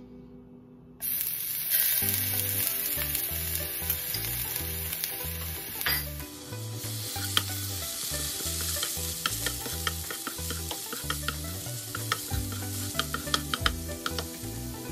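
Food sizzling in a hot frying pan, starting suddenly about a second in, with light clicks of a utensil stirring and scraping in the pan.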